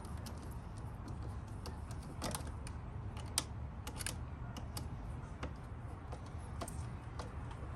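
Scattered light clicks and taps, irregularly spaced, of small parts and fasteners being handled during hand work on car intake parts, over a steady low rumble.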